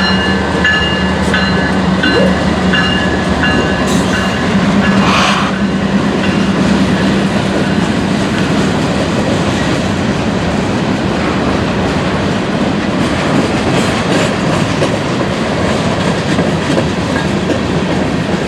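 Freight cars of a long train rolling through a grade crossing with steady wheel clatter and rumble. At first the crossing's General Signals type-2 electronic bell rings in even pulses; it stops a few seconds in while the train keeps passing.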